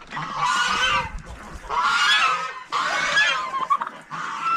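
Cooped farm poultry giving harsh honking calls, four in a row about a second apart.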